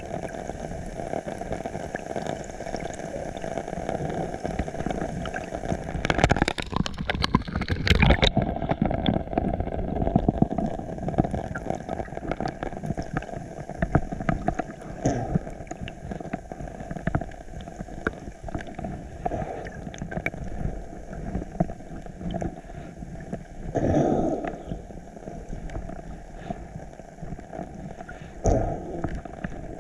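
Ocean water sloshing and gurgling around a swimmer in incoming swells, with a louder rush of splashing about six to eight seconds in and shorter surges of water near the end.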